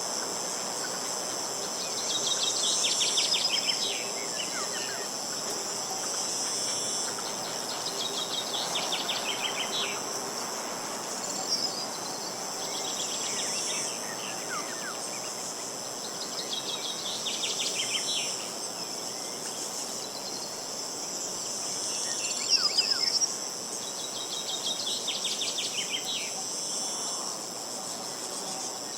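A steady, high-pitched chorus of insects such as crickets, with a songbird singing a short trilled phrase about every four to five seconds, six times in all.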